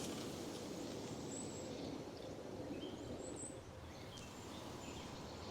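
Pine-forest ambience: a steady low rushing noise with a few faint, short bird chirps midway and near the end.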